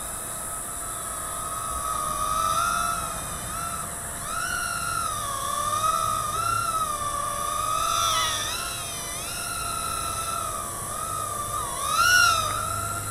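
Micro quadcopter's small electric motors and propellers whining, the pitch rising and falling as the throttle changes, loudest about twelve seconds in.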